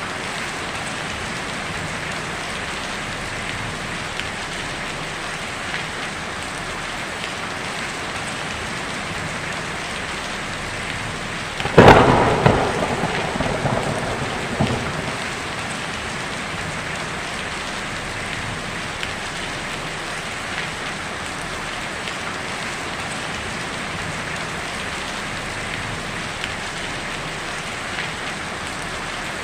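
Heavy rain falling steadily on a tin roof, with a sudden loud thunderclap about twelve seconds in that rumbles away over the next three seconds.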